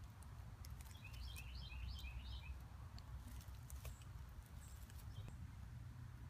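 Faint woodland ambience: a bird gives a quick run of about eight short, high chirps about a second in, over a low steady rumble and a few faint clicks.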